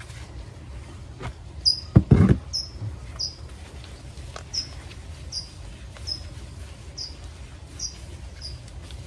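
A bird repeating a short, high chirp about every three quarters of a second, over a steady low rumble. About two seconds in, a couple of dull knocks as the plastic plant pot is handled.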